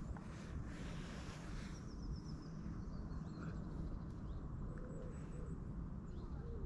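Faint bird calls: a quick run of high chirps about two seconds in, then scattered short calls, over a steady low rumble.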